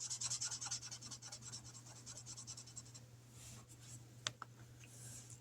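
A pen scribbling quickly on paper, shading in a number on a printed savings tracker, with fast back-and-forth strokes that fade after about three seconds; a single sharp click about four seconds in.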